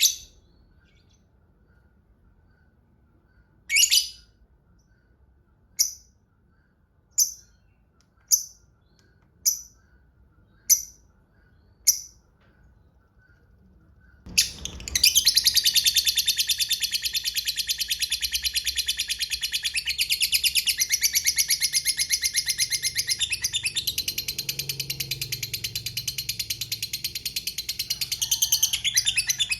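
Lovebird giving a run of short, sharp chirps one to two seconds apart, then from about halfway one long, rapid chattering trill lasting about fifteen seconds: the drawn-out "ngekek panjang" call.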